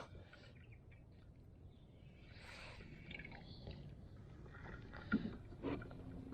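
Quiet, faint handling noise: scattered soft clicks and a brief rustle, with two short knocks near the end.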